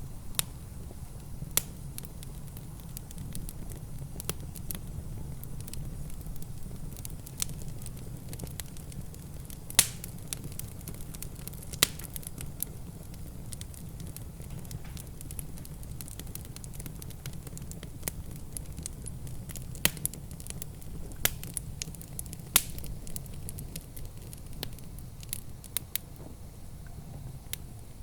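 Wood fire crackling in a fireplace, with irregular sharp pops, a few of them much louder, over a steady low rumble.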